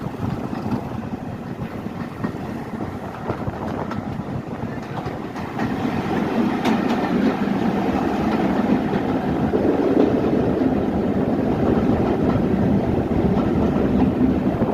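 A train running on the rails, a steady rumble with scattered knocks that grows louder about five and a half seconds in.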